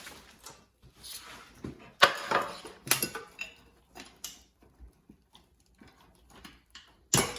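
Metal hand tools clinking and clanking at irregular moments, with sharp knocks about two seconds in, again about a second later, and once more near the end.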